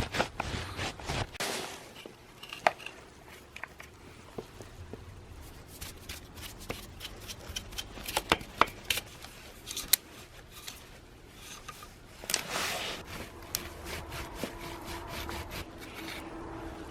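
Hand work on a brush cutter being taken apart: irregular clicks and taps of tools and small parts, with rubbing and scraping. A faint steady hum comes in near the end.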